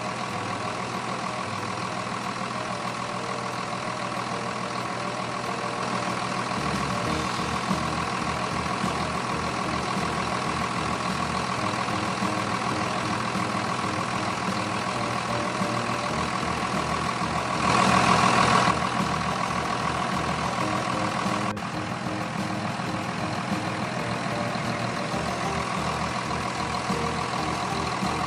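Pulling-tractor engine running steadily, mostly at idle, with a louder burst lasting about a second roughly two-thirds of the way through.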